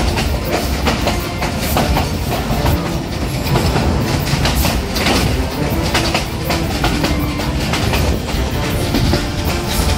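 Passenger train of the Allama Iqbal Express running steadily, heard from aboard, with the rumble of the coach and a constant clatter of the wheels over the track. Faint music plays underneath.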